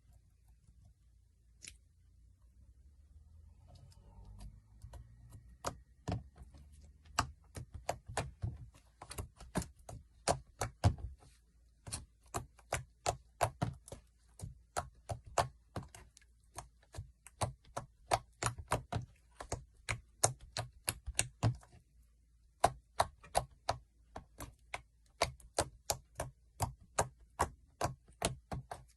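Slime being squeezed and pressed by hand, making rapid sharp clicking pops, several a second. They start a few seconds in and pause briefly about three quarters of the way through.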